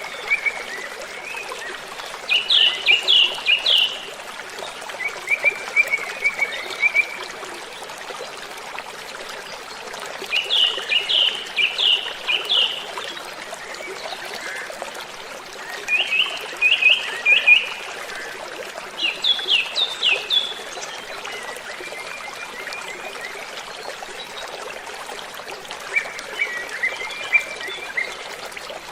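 Waterfall water rushing steadily, with a songbird singing loud short phrases of four to six quick falling notes, repeated about every three seconds.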